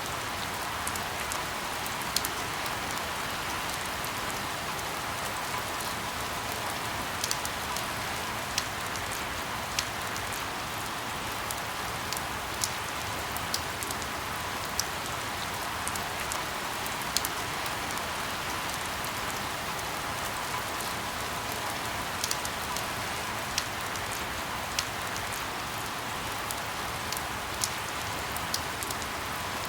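Steady rain falling, a continuous hiss with scattered sharp drop ticks on top.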